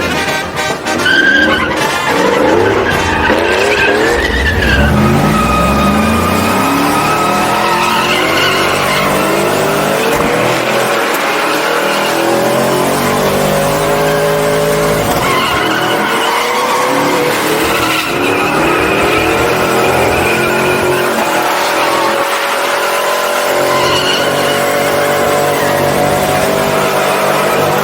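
A truck's engine held at high revs during a burnout, pitch climbing in the first few seconds and then wavering near the top, over continuous tire squeal.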